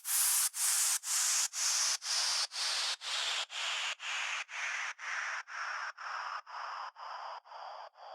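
Rhythmic swishes of filtered white noise, about two a second, with no bass under them, growing steadily fainter: an electronic track's closing noise effect fading out.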